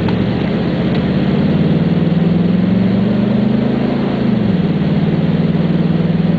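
Heavy truck engine running, its pitch climbing slowly for about four seconds, then dropping sharply and holding steady.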